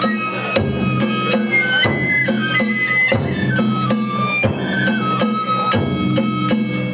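Danjiri festival music (danjiri-bayashi): a high flute melody stepping between held notes over regular drum beats.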